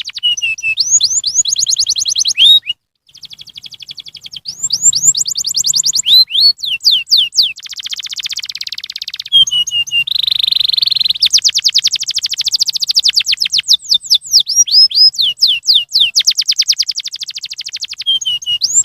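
Domestic canary singing a long song of rapid repeated trills and quick sweeping notes. The song cuts out briefly just under three seconds in, then goes on.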